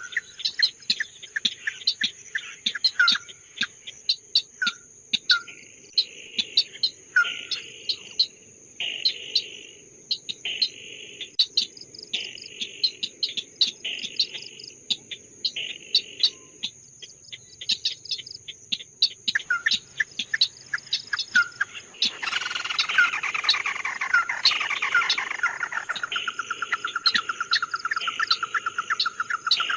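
Songbird calling and singing: rapid sharp chirps and short warbled phrases over a steady high-pitched insect-like whine, ending in a fast rattling trill in the last few seconds.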